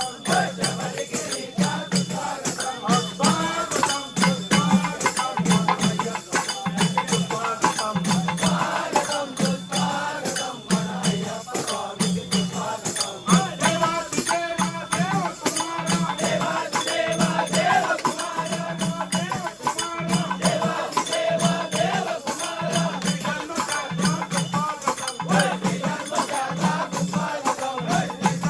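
Devotional bhajan music for a puja: voices sing over a steady drum beat a little more than once a second, with constant jingling hand percussion.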